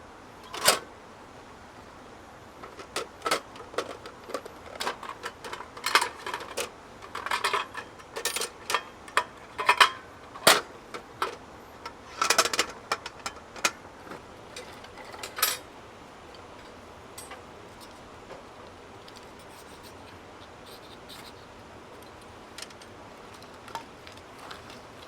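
Irregular clinks and knocks of hard camping gear being handled and set down, dense for about fifteen seconds and then only a few faint clicks.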